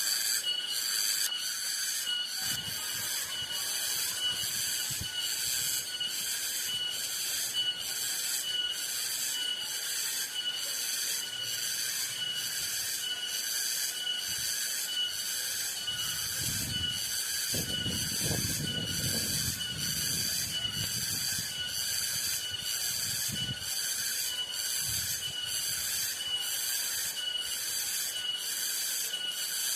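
Cicadas buzzing in a shrill, high-pitched drone that pulses evenly about one and a half times a second. A faint low rumble comes in about halfway through.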